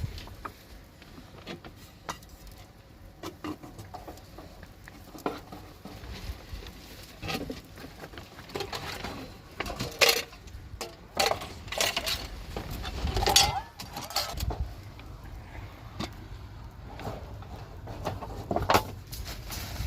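Irregular clinks and knocks of hard objects being handled, with several louder clatters between about ten and fourteen seconds in.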